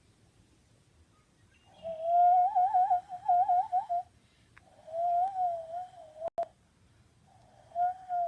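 Cupped-hand bird call blown through the thumbs, whistling three warbling passages that waver quickly up and down in pitch, imitating small bird sounds other than a dove's coo. A short sharp click comes between the second and third passages.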